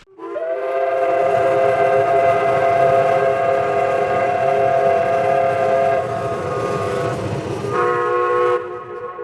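Steam locomotive whistle blowing one long chime chord with a hiss of steam, shifting pitch near the end, then cutting off and dying away.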